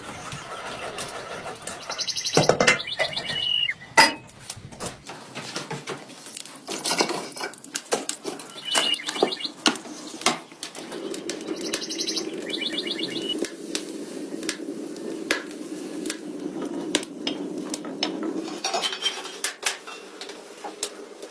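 Dishes and utensils clinking and knocking, with small birds chirping in short trills now and then. A steady low hum joins about halfway through and runs for several seconds.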